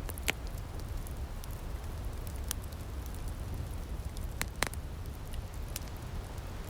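Outdoor wood fire crackling: scattered sharp pops and snaps over a steady low rumble, with the loudest pop just after the start and another past the middle.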